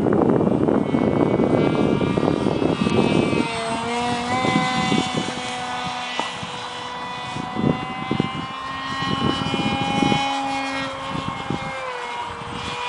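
Battery-electric motor and propeller of a radio-controlled canard airplane in flight: a steady whine that drifts slowly in pitch. A louder rushing noise covers the first three seconds or so.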